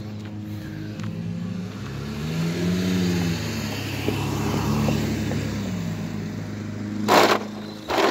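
A motor vehicle's engine running over a steady low hum. Its pitch rises and then falls between about two and four seconds in as it grows louder, with a brief loud rush of noise near the end.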